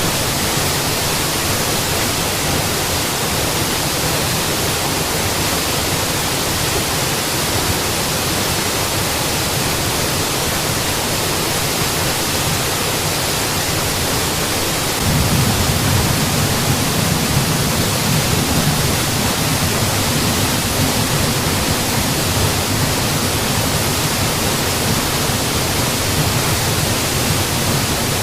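Waterfall: a steady, dense rush of falling water, its low rumble suddenly getting stronger about halfway through.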